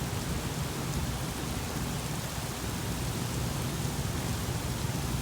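Rain falling steadily in a thunderstorm, an even hiss with a low, steady rumble underneath.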